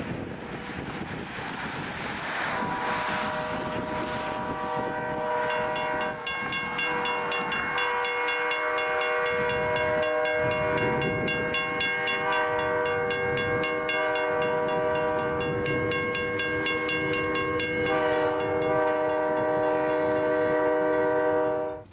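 Train horn sounding one long, continuous multi-note chord that shifts a few times, with rapid, evenly spaced clicking from about five seconds in. It cuts off abruptly near the end.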